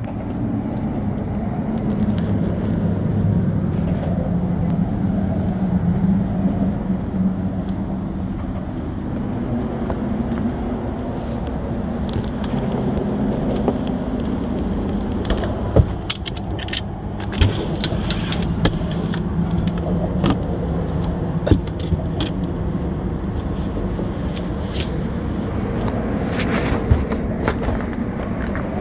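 An engine running steadily with a low drone, with scattered clicks, knocks and rattles over it, most of them in the second half.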